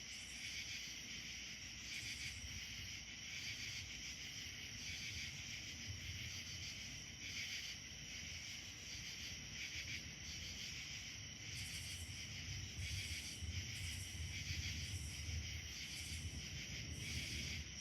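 Steady chorus of insects trilling, with a low rumble underneath that grows louder in the second half.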